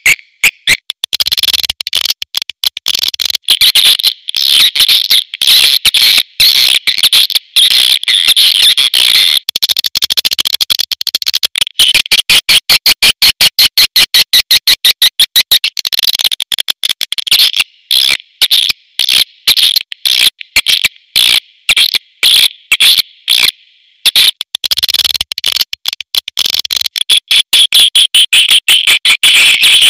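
Recorded swiftlet calls: rapid, dense trains of high chirps and clicks in quick even runs with brief gaps. This is the call sound played from swiftlet houses to lure the birds to roost and nest.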